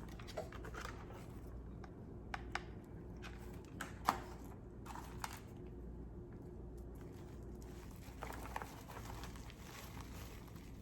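Faint rustling with a few light clicks and crackles as a dry twig is handled and pushed into a paper-bag nest base.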